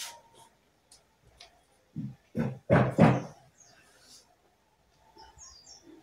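Caged Jongkangan bird calling: four short, loud calls in quick succession about two to three seconds in, then faint high chirps near the end.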